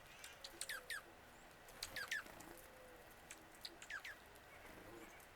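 A bird calling: short, sharp notes that slide steeply down in pitch, mostly in pairs, heard about three times.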